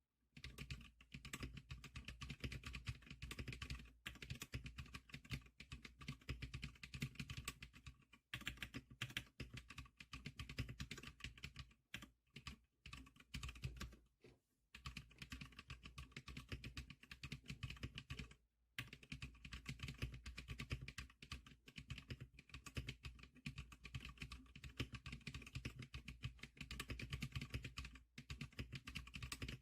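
Steady, rapid typing on the Zikliker SPK100 keyboard, with keystrokes clicking in quick succession and a few brief pauses.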